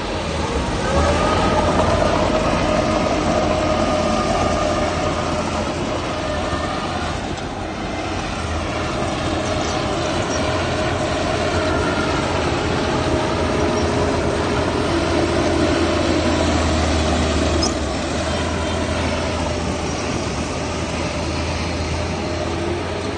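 Heavy diesel earthmoving machinery running steadily, with a wavering high-pitched metallic whine over the low engine rumble.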